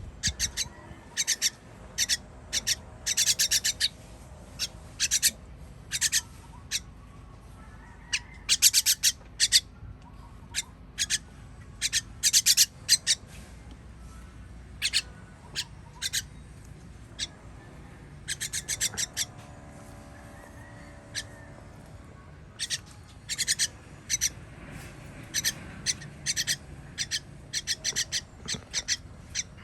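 Nestling birds begging for food with short, high-pitched chirps, given in quick runs of several calls throughout.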